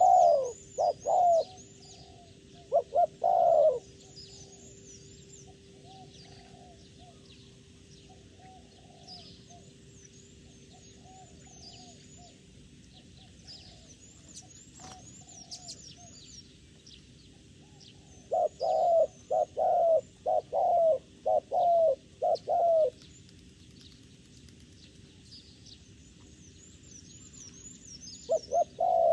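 A dove cooing in loud phrases of short notes: a few at the start, a quick pair about three seconds in, a run of about seven notes in the second half and another burst near the end. Small birds chirp faintly and high throughout.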